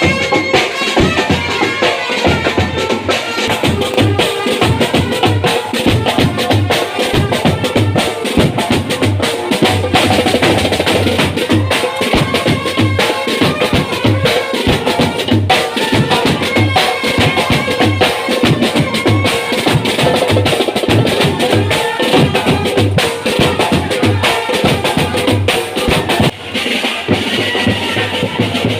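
Marching band playing a march: a steady bass drum beat with snare drum, under a continuous melody line.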